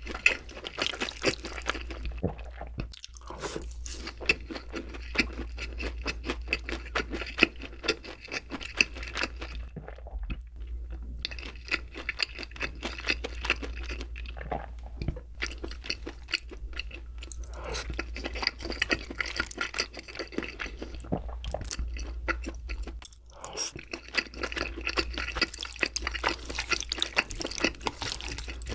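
Close-miked chewing of crispy fried pork cutlet (donkatsu): a rapid run of crunches, with a few short pauses.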